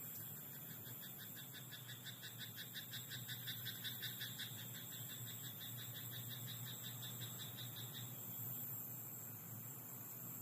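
Frogs croaking in a rice paddy: a fast run of pulsed croaks, several a second, that builds to its loudest about four seconds in and stops about eight seconds in.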